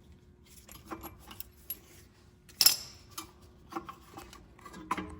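Scattered metal clicks, knocks and scrapes of tools and an old brake pad working against a rear brake caliper as its piston is pressed back, with one sharp metallic clack about two and a half seconds in.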